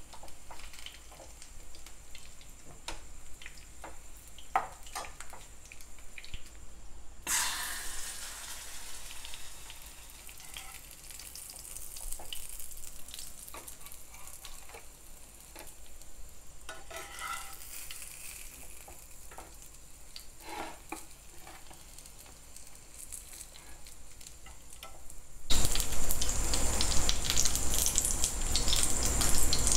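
Chicken frying and sizzling in a pan, with scattered short clicks of utensils against it. A much louder, steady hiss takes over for the last few seconds.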